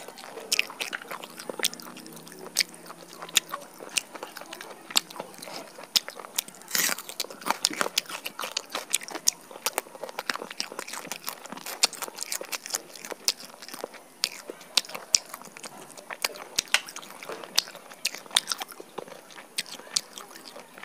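Close-miked eating of roasted chicken: biting and chewing with wet mouth sounds, many sharp, irregular smacks and clicks.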